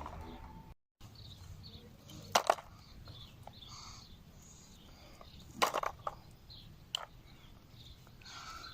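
A few sharp clicks or knocks, spaced apart, over quiet outdoor background with faint, scattered bird chirps.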